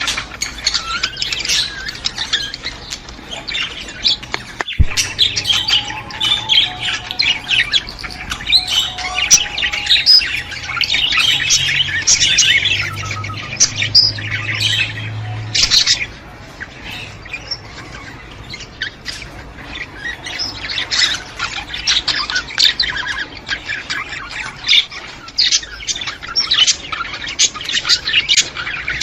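A flock of budgerigars chattering and warbling, a dense, unbroken stream of overlapping high chirps. It is the kind of flock chatter played to stimulate pet budgies.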